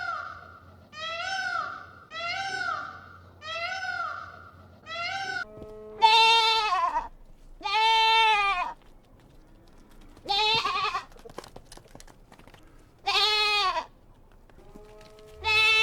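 Goat bleating: five long bleats, two to three seconds apart, starting about six seconds in. They follow a run of short, higher-pitched calls at about one a second.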